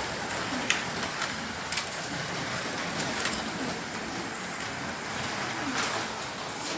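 Slot cars racing on a plastic track: a steady whirring hiss from the cars' small electric motors and guides, broken by a few sharp clicks.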